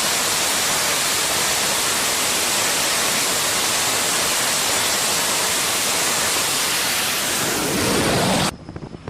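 A steady, loud rushing noise, even across high and low pitches, that cuts off abruptly about eight and a half seconds in.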